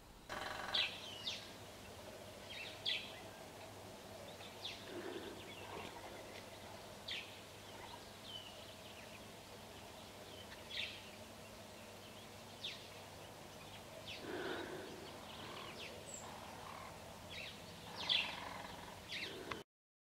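Wild birds giving short, sharp chirping calls at irregular intervals a second or more apart, over faint outdoor background with a low steady hum. The audio stops just before the end.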